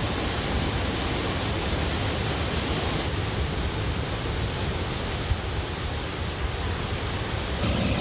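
Steady, full rush of water with no distinct events; the hiss abruptly loses some of its top end about three seconds in.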